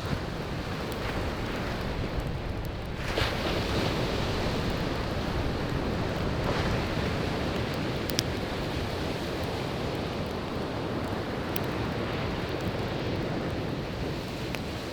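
Sea waves rushing and washing onto the shore in a steady roar that swells about three seconds in and again near the middle, with a wood campfire crackling underneath and giving a few sharp pops.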